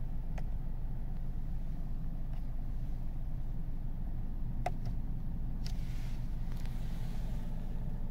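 BMW 120i's B48 two-litre turbocharged four-cylinder idling steadily, heard from inside the cabin, with a low even rumble. A few short clicks of the steering-wheel cruise-control buttons being pressed come over it, the sharpest about halfway through.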